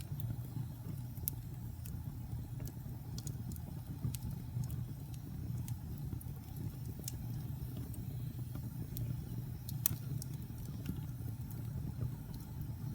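Wood fire burning in a fireplace: a steady low roar with irregular sharp crackles and pops, one louder pop about ten seconds in.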